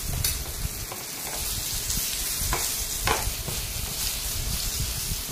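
Round brinjal (eggplant) slices sizzling as they shallow-fry in hot mustard oil in a non-stick pan: a steady hiss, broken by a few sharp clicks and scrapes as the pan and slices are shifted.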